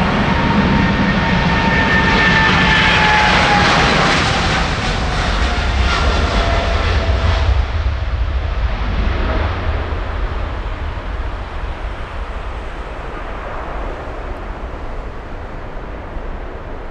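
Jet airliner passing close by: loud engine noise with a whine that falls steadily in pitch as it goes past, then a low rumble that fades away.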